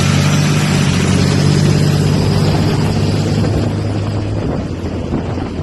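A motor vehicle engine running steadily at a constant speed, dropping off somewhat about four seconds in.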